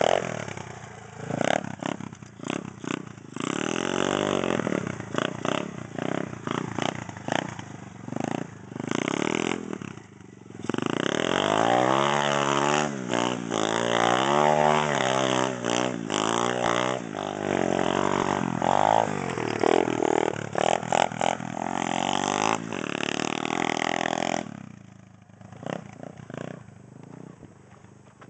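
110cc pit bike's single-cylinder four-stroke engine revving hard and easing off again and again, its pitch rising and falling as the throttle is opened and shut. Near the end it drops to a much quieter low run.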